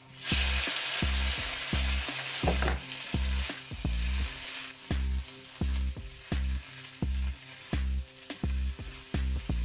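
Drained potatoes tipped into hot oil in a frying pan with onion and garlic, sizzling loudly at once and settling to a softer, steady fry after about four seconds. A steady beat of background music runs underneath.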